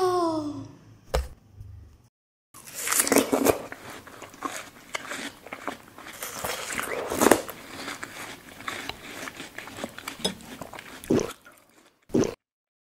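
Close-up biting and chewing of a watermelon slice topped with whipped cream: wet, irregular crunching of the crisp flesh. It opens with a short hum that rises and falls in pitch.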